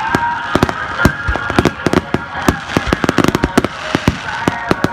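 Fireworks display: a rapid, dense run of sharp bangs and bursts, well over a dozen in a few seconds, some overlapping.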